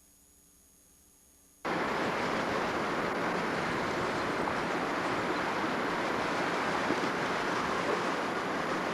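Near silence for about a second and a half, then a sudden cut to steady wind noise rumbling and buffeting on the microphone.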